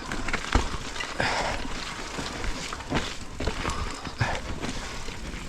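Mountain bike riding over rough, muddy trail: irregular knocks and rattles from the bike over bumps, with tyre and ground noise between them.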